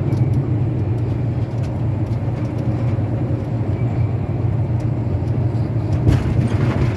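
Steady low engine and road rumble inside a tractor-trailer's cab at highway speed, with a louder rush about six seconds in.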